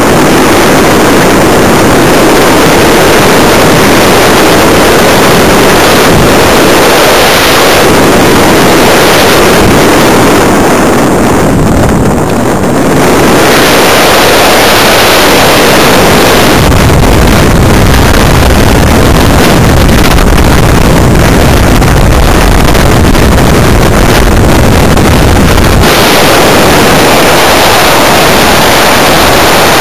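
Loud rushing of airflow over the microphone of a camera mounted on an electric RC glider in flight. For about ten seconds past the middle it turns much deeper and rougher, then settles back.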